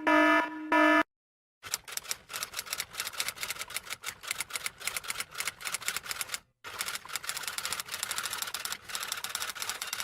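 Typewriter keys clacking in quick, irregular runs for several seconds, with a brief break about two-thirds of the way through. Before it, in the first second, a pulsing buzzer-like tone ends.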